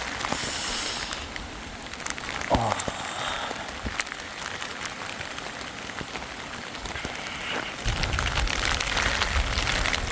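Heavy rain pattering on a tent. It grows louder, with a low rumble added, about eight seconds in.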